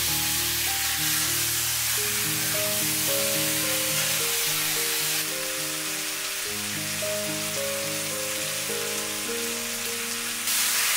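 Background music, with a pork stir-fry sizzling in a cast-iron wok as a steady hiss underneath. The sizzle turns a little quieter about five seconds in and comes back up near the end.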